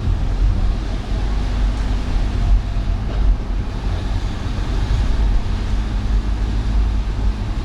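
Car driving through city streets in a rainstorm: steady, heavy low road rumble under an even hiss of wet tyres and rain.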